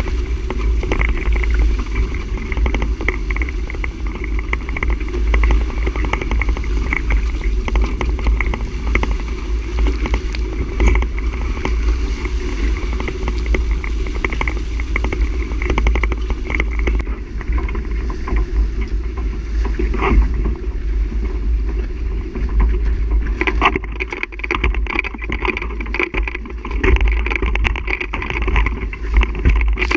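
Steady rushing noise with a strong low rumble aboard a sailboat under way.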